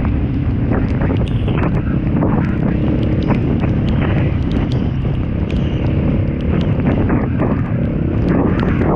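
Off-road motorcycle riding: the engine runs steadily under heavy wind noise on the microphone, with frequent sharp clicks and knocks scattered throughout.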